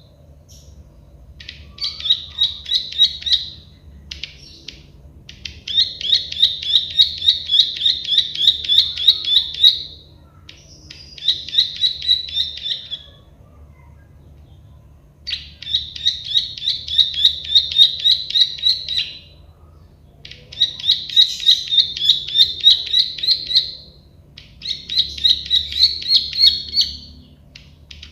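Prenjak sawah (a prinia, the 'klik-klik' bird) singing: about seven phrases of rapid, sharp clicking notes, around five a second, each phrase lasting one to four seconds with short pauses between.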